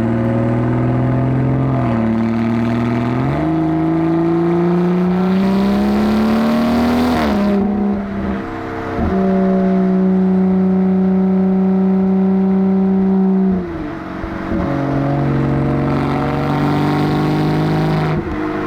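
BMW B58 3.0-litre turbocharged straight-six engine and exhaust under way, its note holding steady, climbing with revs and dropping in steps at gear changes.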